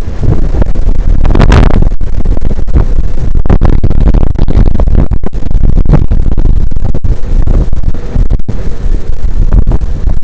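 Strong wind buffeting the microphone on a ship's open deck: a loud, constant rumble that keeps dipping and surging with the gusts.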